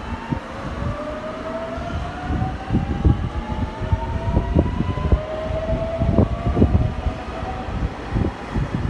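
A train accelerating out of the station, its motor whine rising slowly in pitch, dropping back about six seconds in and then rising again. Irregular low thumps of footsteps and handling run beneath it.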